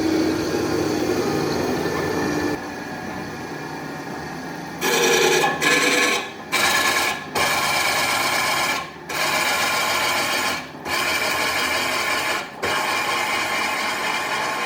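A restored sawmill running, then harsh rasping as it cuts through wood, broken by several short drops.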